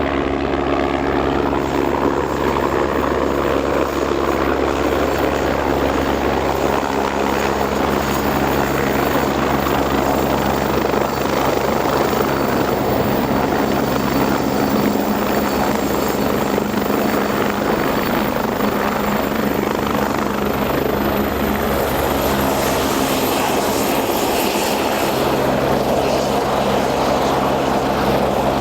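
Agusta A109 twin-turbine helicopter coming in to land: a steady rotor beat under a thin, high turbine whine that dips a little in pitch late on.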